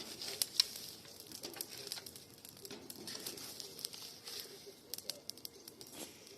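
Wood campfire burning scrap boards, crackling with irregular sharp pops and snaps over a faint hiss.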